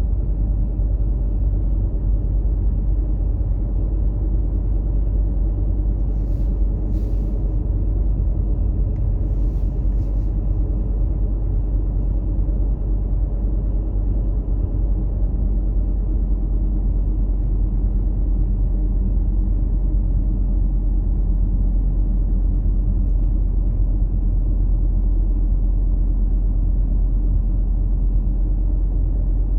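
Steady low road rumble of a vehicle driving, with two brief faint hisses a few seconds apart about a quarter of the way in.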